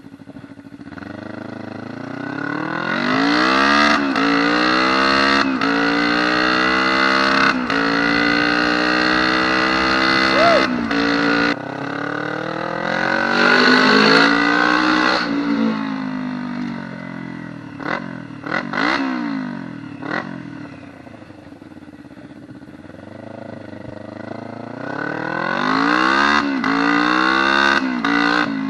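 Motorcycle engine from a Kawasaki Ninja in a homemade dirt bike, freshly jetted with 115 main jets, revving hard under full throttle on a top-speed run. The revs climb and drop sharply several times as it shifts up through the gears, then it backs off and winds down. Near the end it is opened up again.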